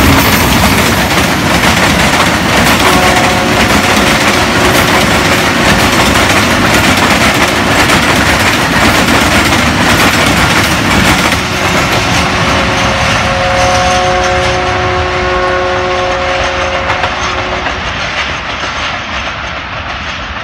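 Pakistan Railways diesel locomotive and its passenger coaches passing close at speed, the wheels clattering over the rail joints, the noise fading as the train draws away. A multi-tone train horn sounds briefly about three seconds in, and again for about five seconds past the middle.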